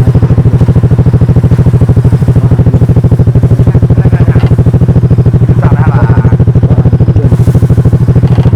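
A small engine running steadily with a fast, even chugging beat, loud and close.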